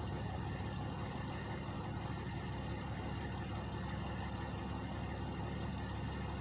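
Truck engines idling, a steady low drone that does not change.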